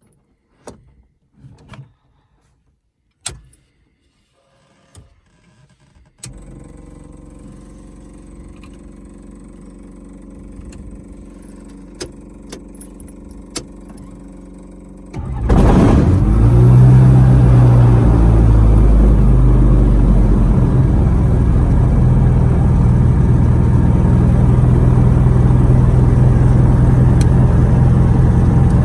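Several sharp switch clicks, then a steady quiet hum comes on about six seconds in. About fifteen seconds in, the DA20 Katana's engine starts with a sudden jump in loudness and then runs steadily.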